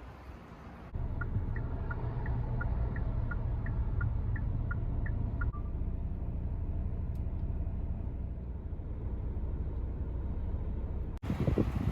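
Steady low vehicle rumble. A run of short high beeps at two alternating pitches sounds over it for the first few seconds.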